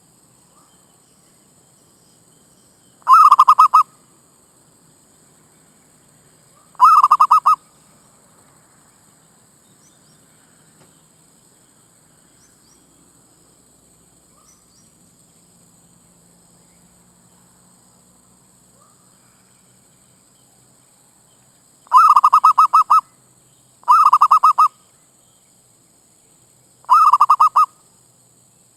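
Zebra dove (merbuk) cooing: five short rolling calls of rapid pulses, each under a second, two in the first third and three close together near the end.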